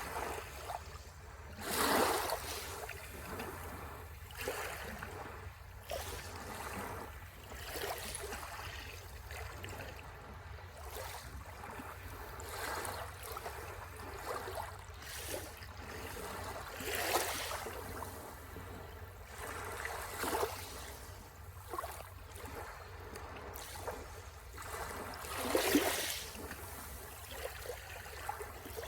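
Sea waves washing onto the shore: a steady rush with irregular swells, the biggest breaking about two seconds in, midway through and near the end.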